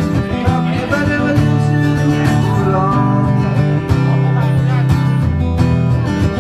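Live blues played on acoustic guitar: strummed chords with single-note lines, in a stretch of the song without lyrics.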